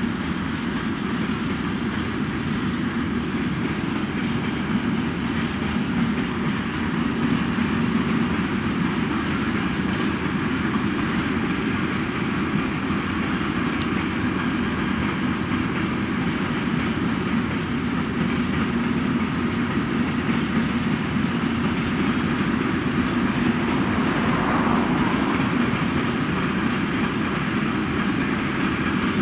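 A freight train of empty container flat wagons rolling past, its wheels making a steady rolling rumble on the rails.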